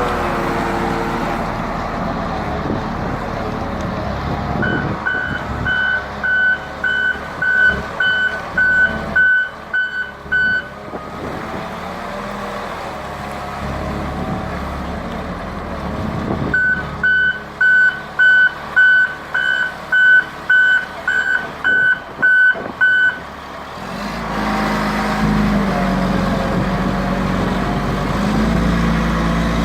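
Volvo L220D wheel loader's diesel engine running and working up and down in pitch, with its reversing alarm beeping about two times a second in two runs of several seconds each while the loader backs up. Near the end the engine settles to a lower, steadier note.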